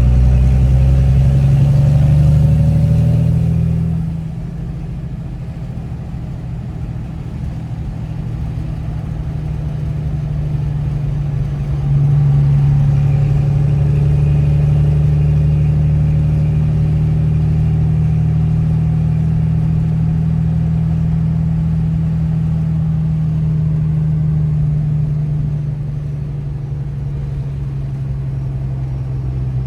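Old pickup truck's engine running under way. The engine note drops about four seconds in and picks up again around twelve seconds in.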